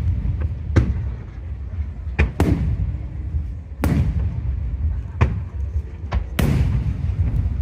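Fireworks shells bursting overhead: about seven sharp bangs at irregular intervals, some followed by a rolling echo, over a steady low rumble.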